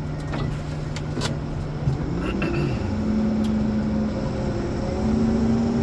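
Ponsse Elephant forwarder's diesel engine running, its revs stepping up about two seconds in and again near the end. A few sharp clicks come in the first second and a half.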